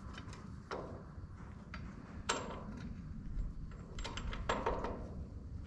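Metal hardware and hand tools being handled: a scatter of light metallic clicks and clinks, the sharpest about two seconds in and a quick cluster around four to four and a half seconds, as bolts, washers and nuts are fitted.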